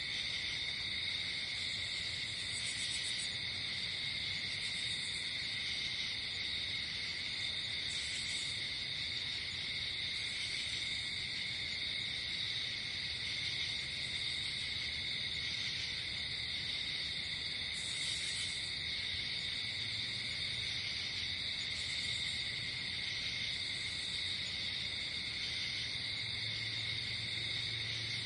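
Night insects such as crickets chirring in a steady, unbroken chorus, with a higher-pitched insect call pulsing every couple of seconds above it.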